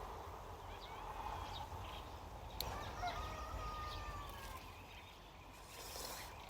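Faint bird calls: scattered short chirps, and one long call that falls slightly in pitch from about two and a half to four and a half seconds in.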